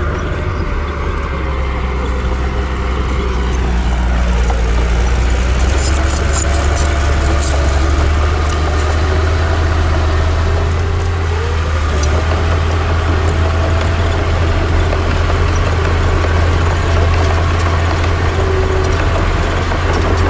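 Heavy diesel earthmoving machinery running steadily, a deep engine drone with some slow rises and falls in pitch, and a few short sharp clicks around five to seven seconds in.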